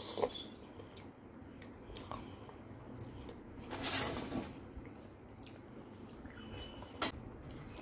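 Close-up chewing and wet mouth sounds of someone eating potato curry by hand, with small clicks throughout. About four seconds in there is a brief louder scrape as fingers wipe the glass bowl, and a sharp click comes near the end.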